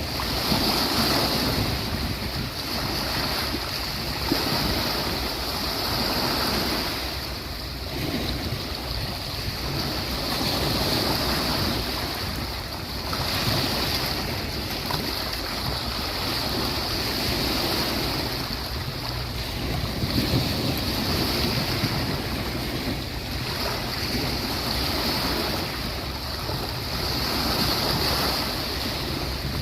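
Sea waves breaking and washing up on a beach, a continuous surf that swells and eases every few seconds.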